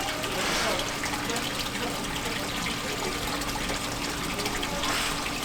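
Seawater sloshing against the harbour edge, the wash swelling about half a second in and again near the end, over a low steady hum.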